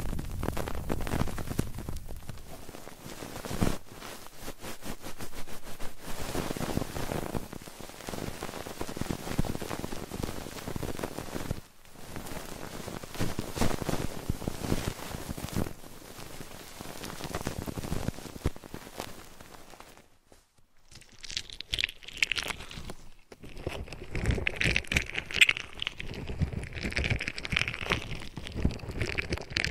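Close-up ASMR trigger sounds on a 3Dio binaural microphone: a dense, continuous crackling and rustling. About two-thirds of the way through it dips briefly and changes to a sparser, higher-pitched crackle.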